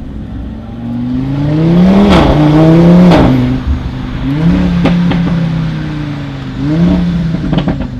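Car engine revving in repeated blips: a longer rise and fall about two seconds in, then shorter blips near the middle and toward the end, with a few sharp cracks among them.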